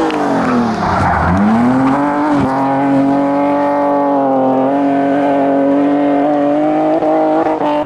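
BMW E46 hillclimb car's engine at racing revs: the revs drop sharply for about a second, with a short burst of tyre noise, then climb back and hold high and nearly steady for several seconds before the sound cuts off near the end.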